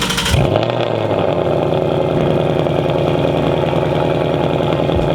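Car engine just after a cold start: it catches with a short flare in the first half-second, then settles into a steady fast idle.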